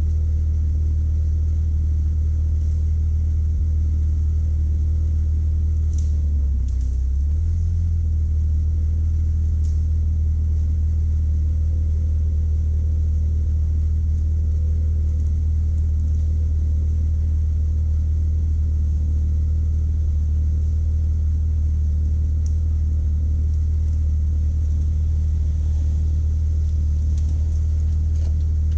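Jeep Wrangler's engine idling steadily, heard from inside the cab, with a brief wobble in its low rumble about seven seconds in.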